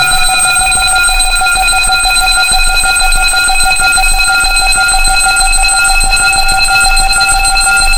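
Loud electronic tone track: several steady tones at fixed pitches sound together, from a mid-range tone up to a very high whine, unchanging throughout.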